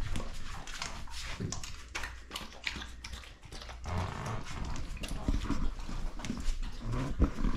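A dog eating a treat: irregular wet smacks, licks and chewing clicks.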